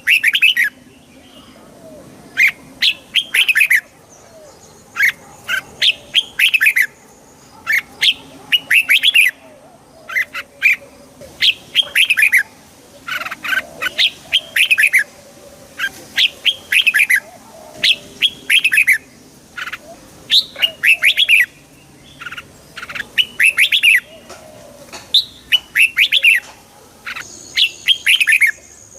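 Red-whiskered bulbuls singing: short, lively phrases of a few quick chirping notes, one phrase after another about once a second.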